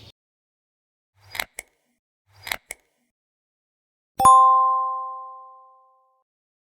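Two short whoosh-and-click sound effects about a second apart, then a single bell-like ding that rings on a few clear tones and fades over about two seconds.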